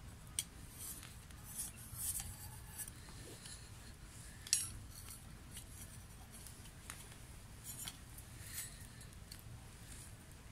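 Wood fire crackling: irregular sharp pops and snaps over a low rumble, the loudest pop about halfway through.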